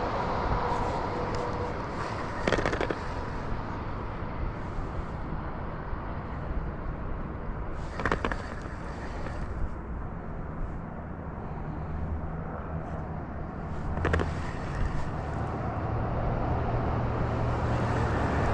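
Steady outdoor background noise with three short, sharp clicks about six seconds apart. A low engine drone builds and grows louder near the end.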